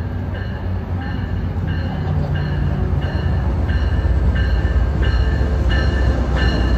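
Amtrak diesel passenger locomotive pulling into a station, its bell ringing about every two-thirds of a second and growing louder as it nears, over a low engine rumble that builds.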